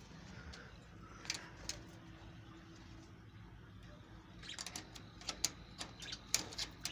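Light clicks and taps: a couple on their own, then a quick irregular run of them from about four and a half seconds in, over faint background noise.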